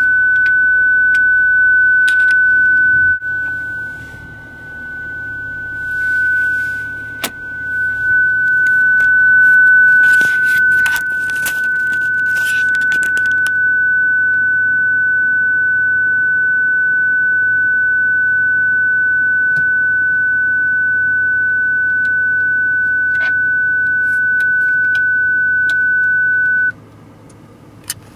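Continuous high-pitched electronic beep, one steady tone held without a break, that cuts off near the end and then comes back. A cluster of clicks and light rattles comes in the middle.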